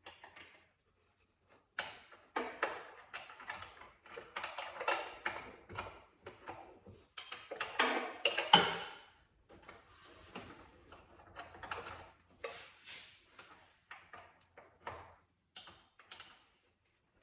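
Irregular clicking and clattering of hand tools and parts being handled while a blower motor is worked out of a car. The loudest knock comes about eight and a half seconds in.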